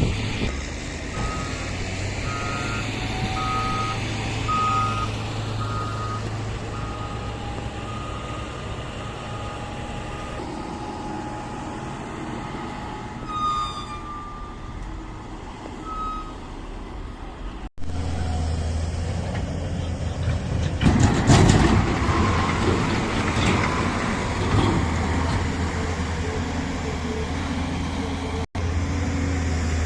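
Diesel engines of heavy earth-moving machinery and dump trucks running, with a vehicle's reversing alarm beeping repeatedly during the first several seconds. Later the engine is louder, with a burst of clattering about two-thirds of the way through.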